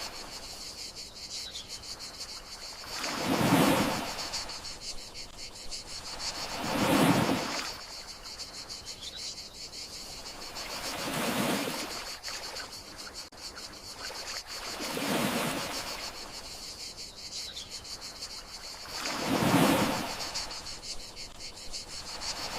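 Gentle sea waves washing ashore, one swell rising and falling every three to four seconds, over a steady, high chirring of crickets.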